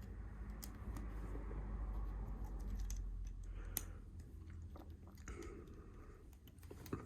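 Hands rummaging through loose Lego pieces: a rustling, crunchy shuffle of plastic with scattered small clicks, and one sharper click a little under four seconds in.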